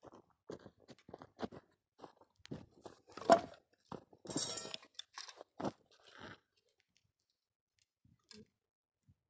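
A run of irregular crunches and snaps, with one sharp crack about three seconds in and a longer rustling crunch just after, stopping after about six seconds.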